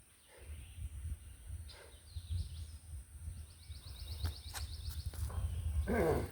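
Outdoor ambience with a steady low rumble and a bird's short, rapid high trill about three seconds in, followed by a few sharp clicks.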